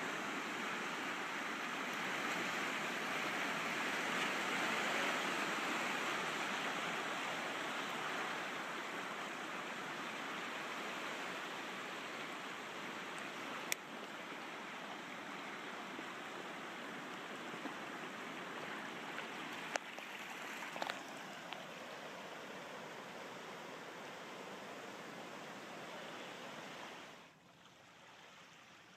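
Steady rushing of water, with a few sharp clicks in the middle; it drops suddenly to a much quieter level a couple of seconds before the end.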